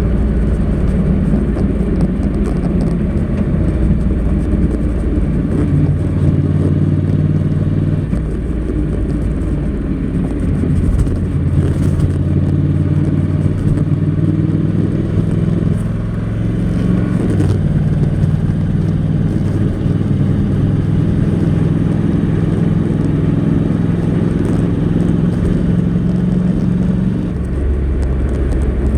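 Honda NC700X's parallel-twin engine with stock exhaust, heard on the move: a steady low drone whose pitch shifts in steps several times, holding a level note between the steps.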